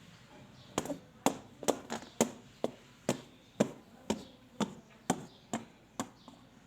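A run of about a dozen sharp, evenly spaced knocks, roughly two a second, starting about a second in and stopping near the end.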